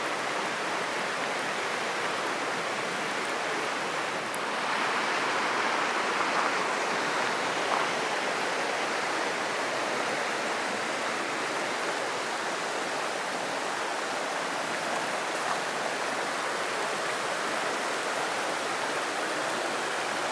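Steady rush of flowing stream water, swelling slightly a few seconds in.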